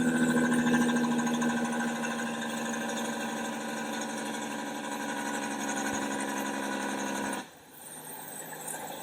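Diesel engine of a double-trailer semi truck running with a steady engine note, loudest at first and easing slightly. The sound cuts off abruptly about seven and a half seconds in, leaving quieter background noise.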